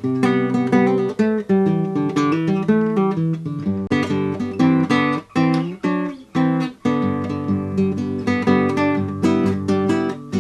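Theme music: an acoustic guitar piece of quickly plucked and strummed chords.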